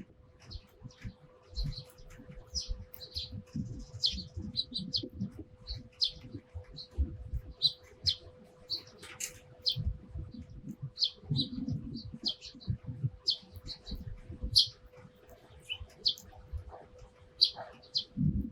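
Eurasian tree sparrows chirping, a busy scatter of short, high chirps one after another, over irregular low rumbling and thumps and a faint steady hum.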